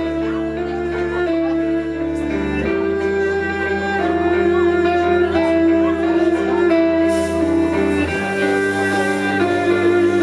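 A live trio playing an instrumental passage: held notes over a bass line that steps to a new note twice, with a high hiss coming in about seven seconds in.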